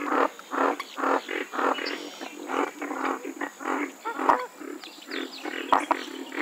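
Western swamphen giving a rapid series of harsh, nasal calls, about three a second. A few sharp clicks sound, one about four seconds in and two close together near the end.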